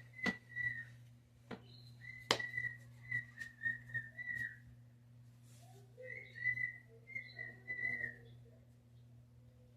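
Whistling in three short phrases of notes held near one pitch, with a few sharp knocks in the first few seconds.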